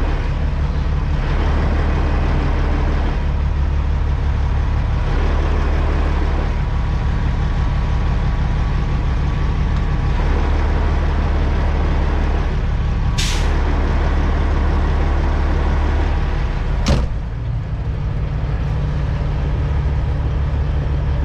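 Semi-truck diesel engine running steadily at low revs while backing up. About two-thirds of the way through there is a short hiss of air from the air brakes. A few seconds later comes a sharp burst of air, after which the engine note briefly dips and changes.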